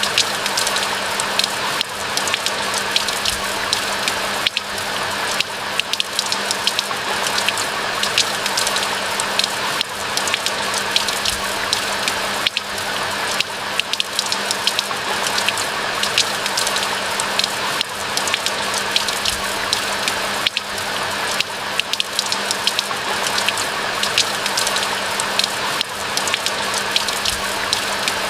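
Steady rain falling: a dense patter of individual drops over an even hiss.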